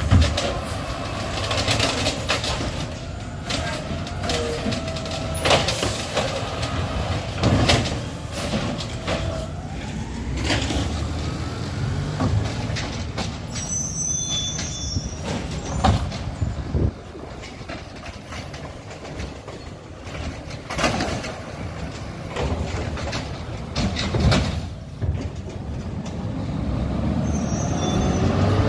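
Garbage truck at work: engine running, with sharp knocks and clatter every few seconds.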